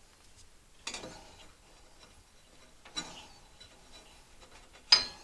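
Ratchet wrench with a spark plug socket working in three short strokes, about two seconds apart, each a brief rasp of clicks, as the spark plug is backed out of the mower engine.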